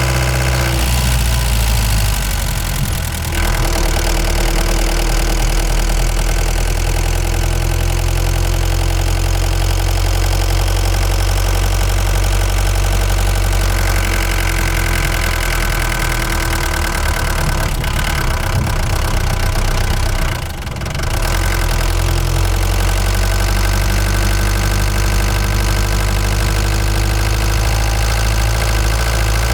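Ford Transit Mk5 van's engine running steadily while driving. The sound briefly drops twice, about three seconds in and about twenty seconds in.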